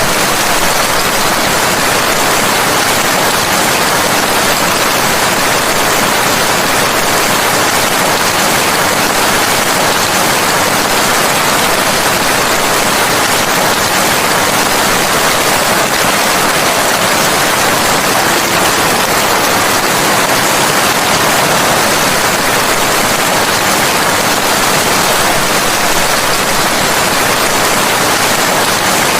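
Steady heavy rain: an even, unbroken hiss with no separate drops, thunder or other events standing out.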